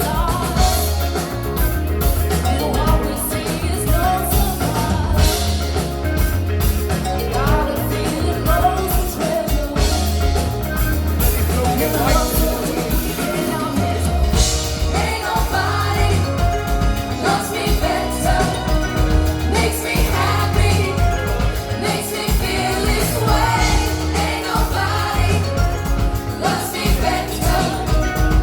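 Live pop-rock band playing with a lead vocalist singing, over a heavy bass line and drum beat, as heard from the audience.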